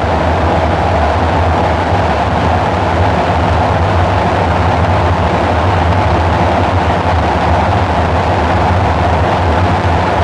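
Dark ambient synthesizer drone: a steady low rumble with a dense, hissing wash of noise above it, unchanging throughout.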